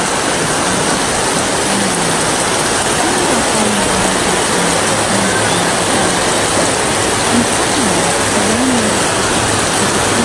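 Loud, steady rush of water from torrential rain and flooding, with faint voices of people underneath.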